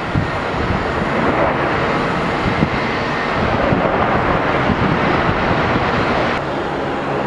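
Steady jet engine noise from an Airbus A330-300 airliner arriving to land, with wind buffeting the microphone. The sound changes abruptly near the end at a cut.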